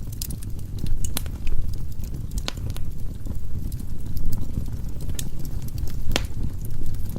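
Firewood burning in a fireplace: a steady low rumble of flame with scattered sharp crackles and pops, the loudest about a second in, midway and near the end.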